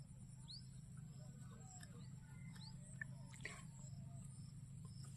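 Faint field ambience: a low steady hum with two brief high rising chirps, like a small bird calling, and a few light ticks.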